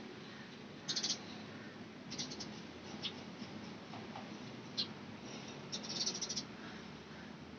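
Birds chirping: short, high-pitched chirps every second or so, with a quick run of rapid chirps about six seconds in, over a steady low background rumble.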